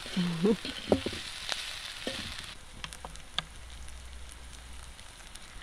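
Chopped chitons frying in a metal pan over a wood fire, sizzling. The sizzle drops away after about two and a half seconds, followed by a few sharp clicks of the fork against the pan as it stirs.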